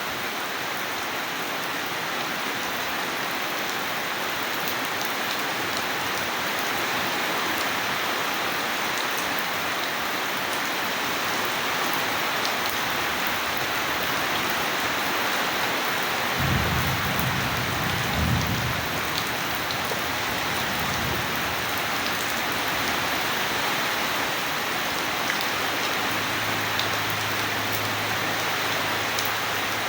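Steady rain falling, with a low roll of thunder starting a little past halfway and dying away over about four seconds.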